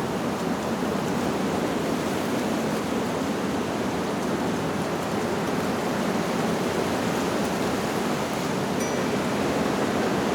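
Steady rushing of wind through leaves, with a few faint, brief wind-chime tones about nine seconds in.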